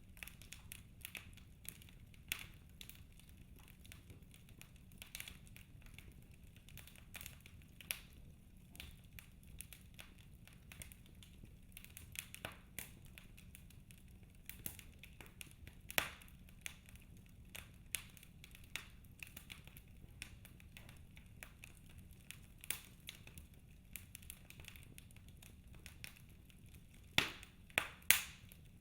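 Wood logs burning in a fireplace, crackling with irregular small pops and snaps over a low steady rumble, a few louder pops among them, two close together near the end.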